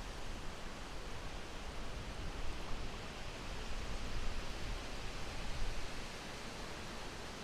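Steady wind: an even rushing hiss over a low rumble, swelling slightly in strength now and then.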